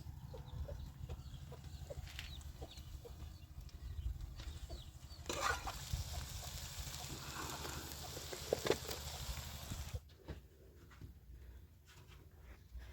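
Chickens clucking over a low, steady rumble; about ten seconds in the rumble drops away abruptly.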